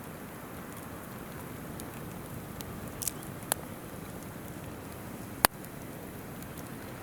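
Wood campfire crackling, with a few sharp pops about three seconds in and one loud snap about five and a half seconds in, over the steady rush of a river.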